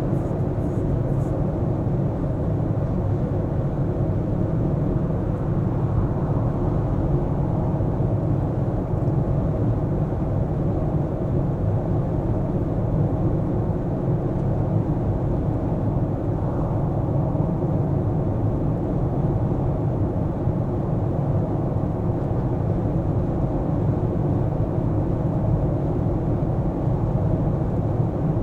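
Car driving at a steady pace: a low, even rumble of engine and tyre noise that hardly changes.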